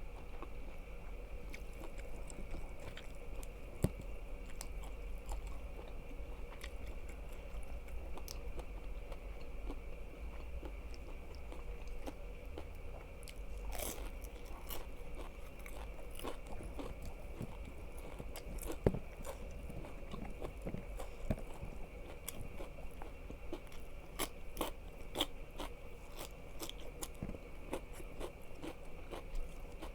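Close-miked eating: crunchy bites and chewing, with scattered crisp crackles and clicks.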